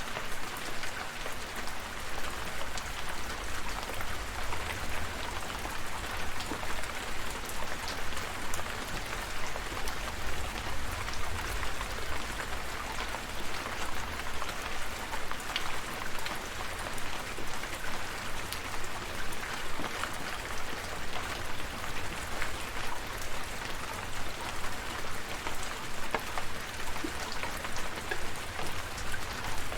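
Steady rain falling, with many individual drops tapping, over a low rumble underneath.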